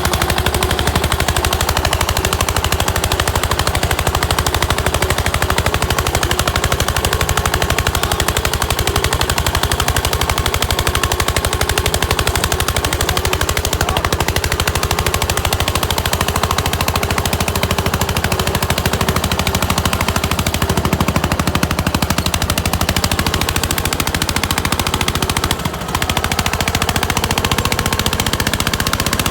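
Eicher tractor's diesel engine working hard under a heavy pulling load, a fast, steady train of exhaust beats, with a brief drop in level about 25 seconds in.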